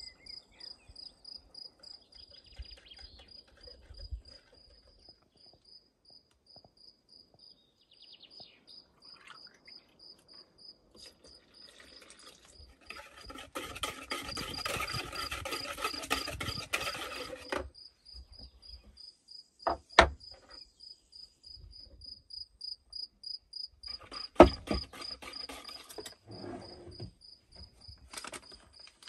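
A cricket chirping steadily in a high, evenly pulsed trill. About halfway through, a louder noisy sound lasts about four seconds, and two sharp knocks come a few seconds apart in the second half.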